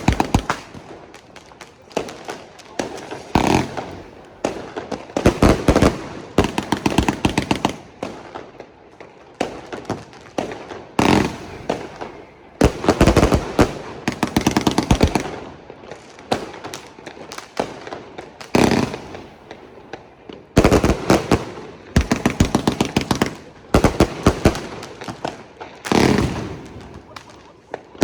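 New Year's Eve fireworks and firecrackers going off: strings of rapid sharp bangs and crackles in repeated volleys, with short lulls between.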